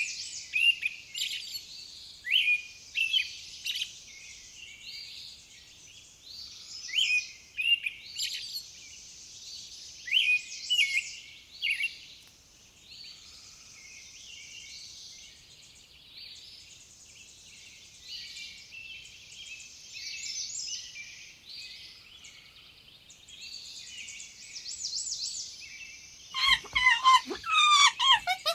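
Many small birds chirping and twittering in short, overlapping high calls, with brief quieter spells. Near the end a louder, lower, rapidly repeated calling starts.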